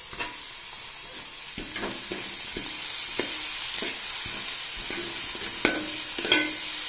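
Sliced onions, green chillies and tomatoes sizzling in oil in a metal pot, with a steady hiss, while a perforated metal spatula stirs them, scraping and clinking against the pot several times.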